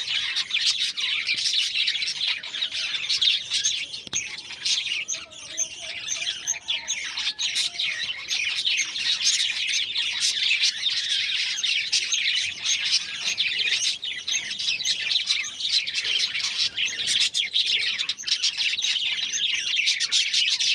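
A flock of caged budgerigars and cockatiels chirping and chattering continuously, many calls overlapping at once.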